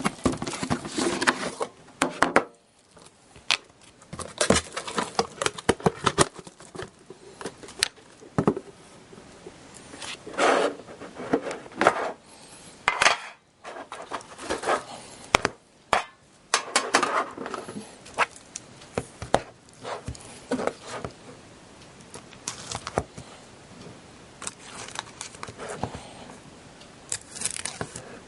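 A sealed trading-card box being worked open by hand: irregular scrapes, clicks and knocks of packaging being pried and pulled, in uneven bursts with short pauses.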